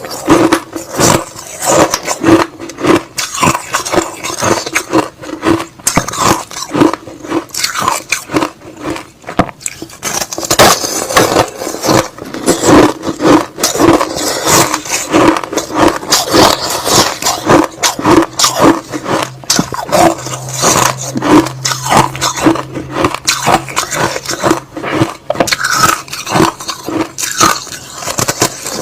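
Close-miked crunching and chewing of crushed ice slush, a dense run of crunchy bites and grinding with no pause.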